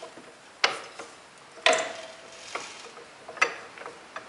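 Knocks and clicks from the rotating blade assembly of an antique contractor's saw rig as it is unlocked, turned and latched onto the next blade. There are about six strikes at uneven intervals; the loudest comes a bit under two seconds in and has a short ring.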